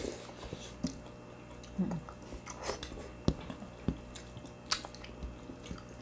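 People eating: chewing and biting, with irregular sharp clicks and crunches.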